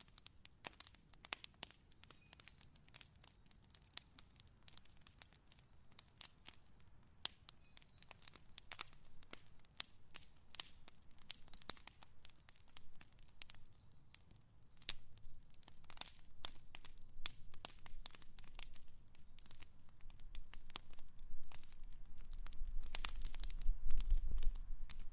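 Fire crackling, with sharp irregular pops and snaps. A low rumble builds over the last few seconds.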